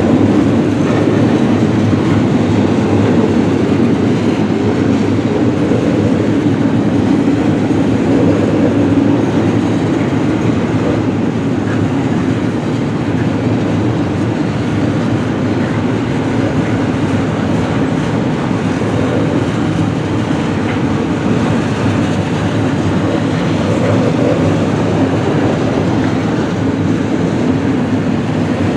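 A freight train's cars rolling steadily past, the wheels running on the rails with a constant rumble.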